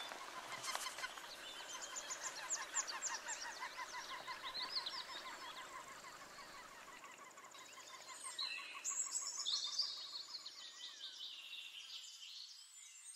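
Wild birds calling and singing: fast repeated chirps and quick high trilling notes from several birds, growing busier and louder about nine seconds in.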